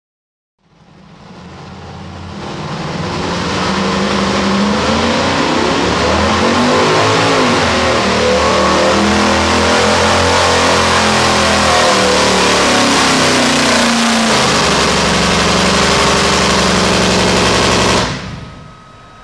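Pro stock four-wheel-drive pulling truck's engine running at high revs under full load during a pull, its pitch wavering as the revs rise and fall. It builds up over the first few seconds, then cuts off abruptly near the end.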